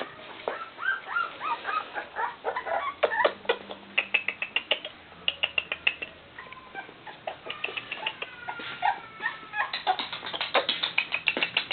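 Bull terrier puppies whining and yipping in many quick, short, high calls, with a few longer drawn-out whines about eight seconds in.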